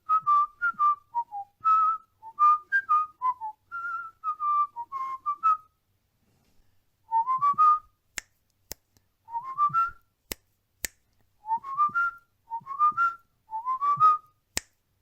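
Cockatiel whistling a learned tune in short, clear notes: first a run of quick up-and-down phrases, then after a short pause a rising four- or five-note phrase repeated several times. A few sharp single clicks fall in the second half.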